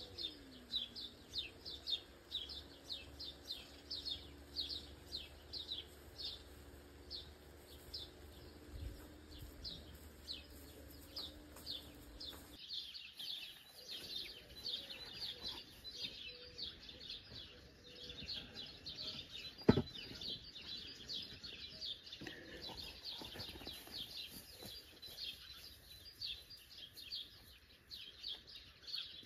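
Birds chirping constantly, many short high chirps overlapping in quick succession. One sharp knock about twenty seconds in.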